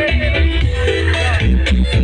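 Loud electronic DJ dance music with very heavy bass, played through a large parade sound system of the Indonesian 'sound horeg' kind.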